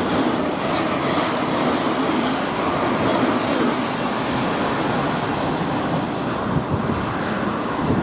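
A train running through the station, a steady rushing noise whose higher part thins out near the end.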